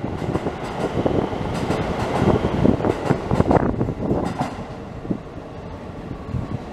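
Keisei 3050-type eight-car electric train pulling out of a station, its wheels clattering over the rail joints as the last cars pass. The noise falls away about five seconds in as the train draws off.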